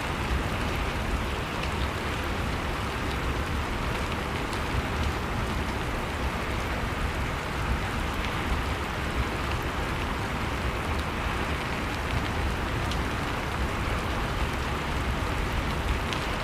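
Steady blizzard wind noise with the faint, scattered crackle of a wood fire burning in a fireplace.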